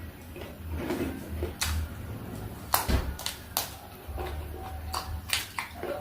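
Close-miked eating sounds: chewing and handling food, with several sharp clicks and taps spread through.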